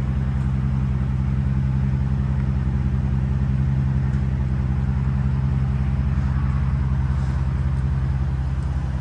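2002 Mercedes-Benz CL600's 5.8-litre naturally aspirated V12 idling steadily through its newly fitted exhaust, heard at the tailpipes.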